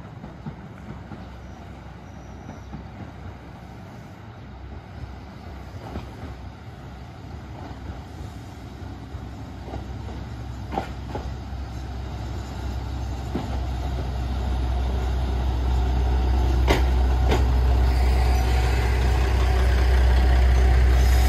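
Shimabara Railway diesel railcar approaching and pulling into the station, its low engine rumble growing steadily louder. A few sharp clacks come from the wheels as it nears.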